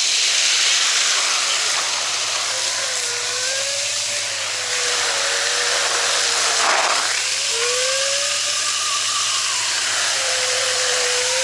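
Fire hose nozzle spraying water at full pressure: a loud, steady hiss with a wavering whistle running through it from a few seconds in.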